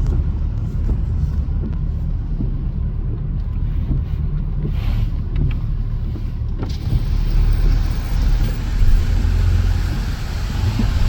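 Road traffic heard from inside a car: a steady low rumble, with a louder hiss of passing traffic rising suddenly a little past halfway.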